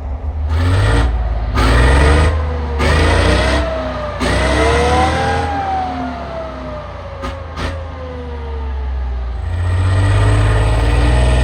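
Engine of a heavy vehicle pulling away: its pitch climbs in four steps with a short break between each, as it shifts up through the gears, then falls away slowly. A steady low engine sound follows near the end.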